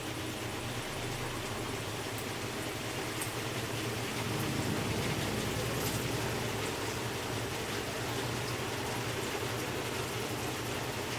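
GE Ecoperformance 15 kg washing machine in its spin cycle: the basket spinning with a steady low hum under a rushing hiss, growing a little louder about four seconds in.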